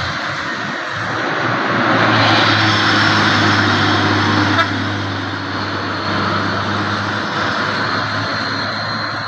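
Heavy diesel truck engine running hard on a steep climb, a steady low hum under a loud rushing noise that swells about two seconds in, with a single sharp click midway.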